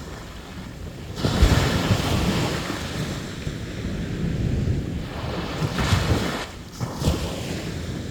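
Sea waves breaking on the beach. A wave crashes about a second in and washes up the shore, and two smaller surges follow near the end, over a steady low rumble of surf.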